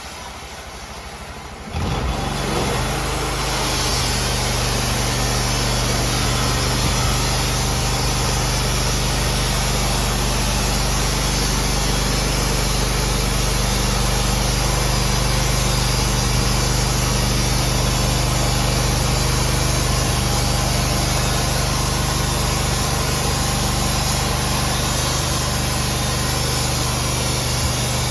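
A sawmill engine starts up or throttles up sharply about two seconds in, then runs steadily at a constant speed.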